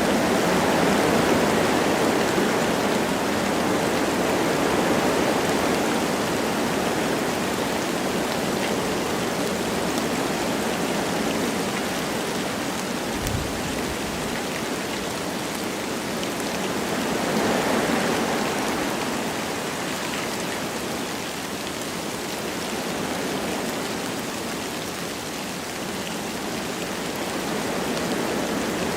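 Wind blowing through forest trees with light rain: a steady rushing noise that swells and eases in slow gusts, the strongest about two-thirds of the way in. A brief low thump near the middle.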